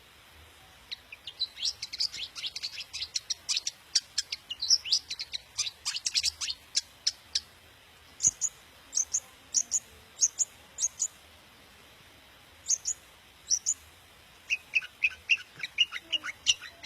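Long-tailed shrike (cendet) singing: a fast run of sharp, high chattering notes, then a slower series of spaced high chips about every half second, then quicker, lower notes near the end.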